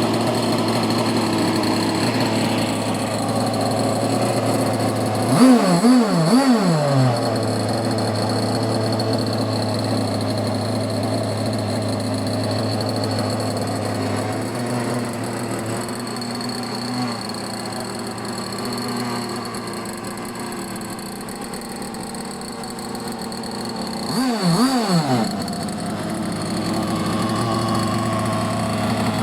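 The Skater 26's engine idling steadily through its exhaust, with quick throttle blips: three short revs about six seconds in and two more near the end.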